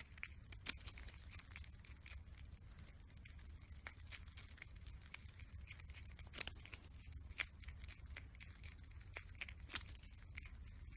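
Prairie dog eating an apple slice held in its paws: faint, irregular crunching clicks of biting and chewing, a few of them louder, over a steady low hum.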